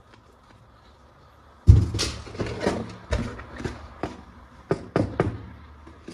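Plastic toy parts being handled: a sudden knock a little under two seconds in, then a run of sharp clicks, knocks and rustles.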